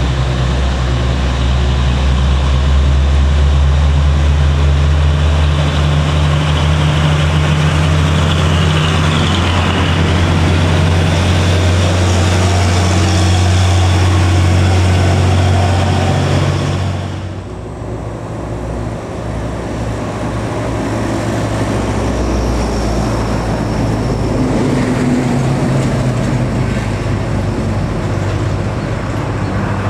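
Heavily loaded diesel trucks' engines labouring up a steep climb, a deep steady engine note. A little over halfway through it drops away and a quieter engine with road noise follows.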